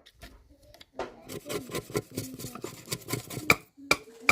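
Hard objects being handled: a clatter of knocks and clinks, then a run of separate sharp knocks a few tenths of a second apart near the end.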